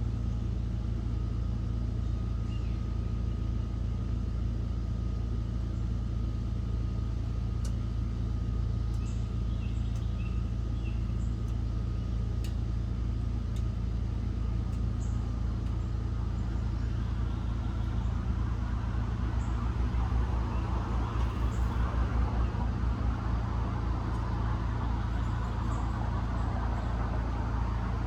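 A steady low motor hum runs throughout, with a few faint, short high-pitched sounds and ticks in the first half. From about two-thirds of the way in, a rougher rushing noise and a pulsing low rumble build up.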